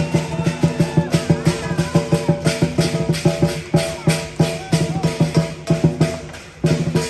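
Lion dance percussion playing a fast, even beat: drum strokes about four to five a second over ringing metal tones, with a short break near the end.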